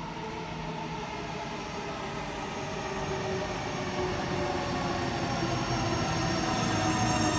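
Sydney Trains Millennium (M-set) electric train approaching and pulling into an underground station, growing steadily louder. Its running rumble carries several steady whining tones.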